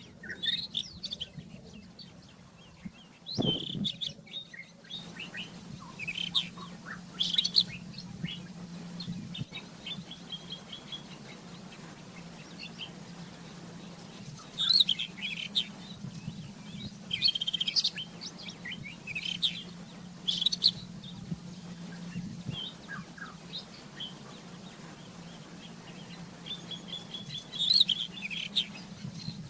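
Rufous-tailed scrub robin singing: short phrases of high, varied notes, broken by pauses of a few seconds, over a steady low hum. There is one sharp click about three and a half seconds in.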